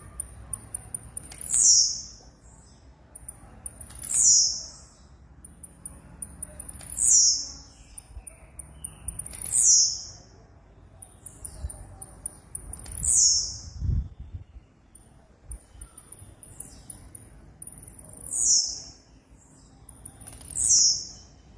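Blue-black grassquit (tiziu) calling: a high, falling note repeated about every two to three seconds, with fast trains of thin, high ticks between the notes.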